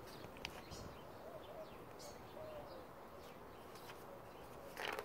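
Faint bird chirps over quiet outdoor background, with a couple of soft low calls in between and a brief rustle near the end.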